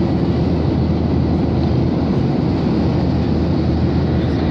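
Steady cabin noise of a Boeing 737-800 under way: a constant low rumble from its CFM56 turbofan engines and the airflow past the fuselage, with a faint high steady whine above it.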